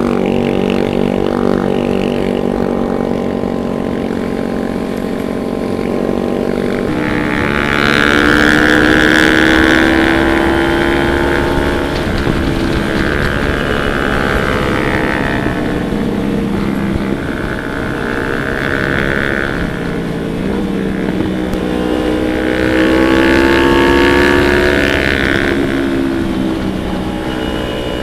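Motorcycle engine running steadily while riding, with the engine note growing louder twice as the bike is given more throttle.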